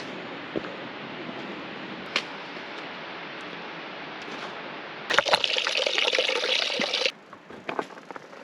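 Steady rush of running water. About five seconds in, a louder, harsher rush starts abruptly, lasts about two seconds, and cuts off suddenly. A quieter stretch with a few scattered clicks follows.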